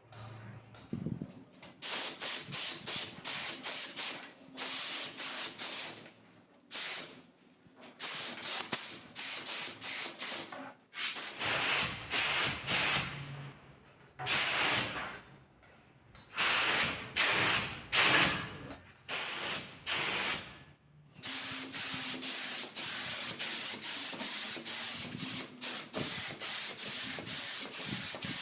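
Paint spray gun driven by a refrigerator compressor, hissing in repeated bursts of a second or two as the trigger is pulled and released, then spraying without a break for the last several seconds.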